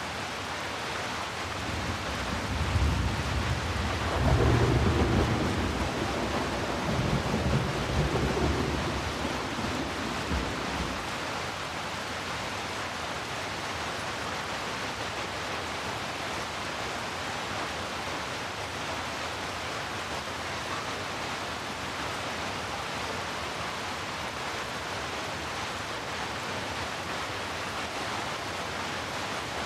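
Steady rain falling, with a long low rumble of distant thunder that swells a couple of seconds in and rolls away over about ten seconds.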